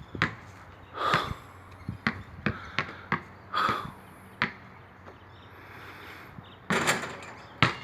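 A series of irregular knocks and thumps, about a dozen over several seconds, two of them with a short ringing tone.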